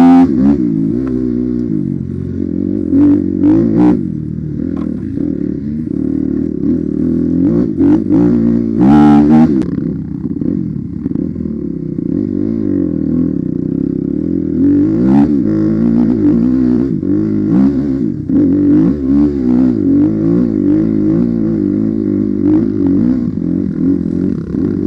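Enduro motorcycle engine being ridden off-road, revving up and down every second or two, with a few sharp clattering knocks.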